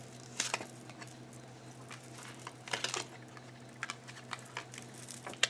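Scattered light clicks and soft rustles of tarot cards being handled on a table, over a faint steady hum.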